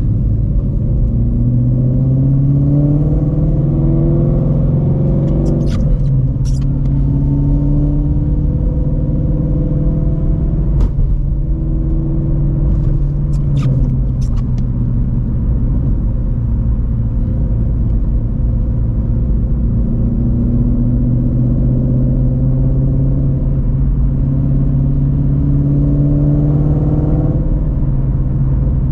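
2016 Shelby GT350's 5.2L Voodoo V8 through long-tube headers and a Borla cat-back exhaust, driving under light throttle with the engine note rising and falling several times as it accelerates and eases off. A few short sharp clicks come over it.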